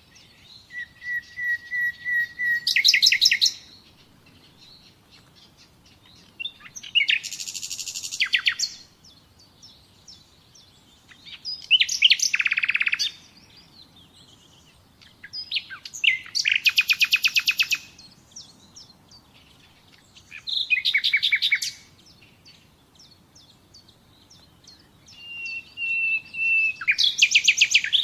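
A songbird singing in six separate phrases a few seconds apart, each a quick run of repeated notes and rapid trills, some starting with a short series of steady whistled notes.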